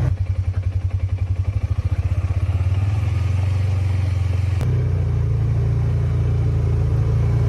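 Low, steady rumble of a motor vehicle on the move, with a fast throbbing pulse over the first couple of seconds and a sharp click about four and a half seconds in, after which the rumble runs on evenly.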